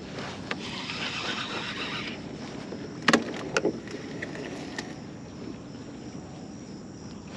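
Steady outdoor background noise with three sharp knocks in quick succession a little after three seconds in, followed by a couple of faint ticks.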